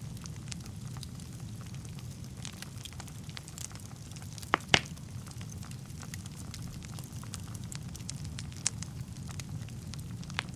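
Wood fire burning in a fireplace: a steady low rumble of flames with scattered crackles and pops, the loudest two sharp pops close together about four and a half seconds in.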